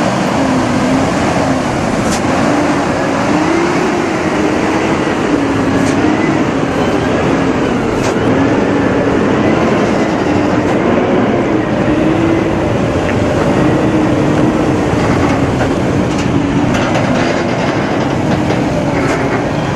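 A truck engine running steadily under load, its drone rising and falling slowly in pitch.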